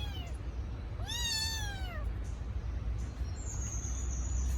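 Kitten crying with high, drawn-out meows, the cry of a kitten missing its mother: one call trails off right at the start and a full one about a second in rises then falls over about a second. A thin, steady high tone sounds for about a second near the end, over a low rumble.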